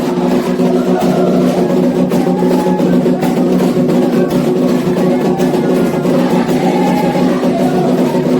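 Candomblé ritual music: atabaque hand drums beating a steady rhythm under group singing.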